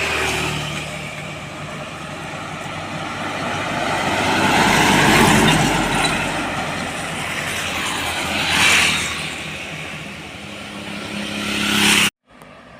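Road vehicles passing one after another, each swelling up and fading away, the loudest about five seconds in. The sound cuts off abruptly near the end.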